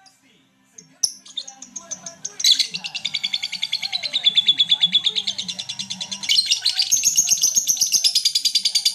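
Lovebird singing: a few short chirps, then a long, very rapid chattering trill of high notes, the 'ngekek' song, which steps higher about six seconds in and keeps going.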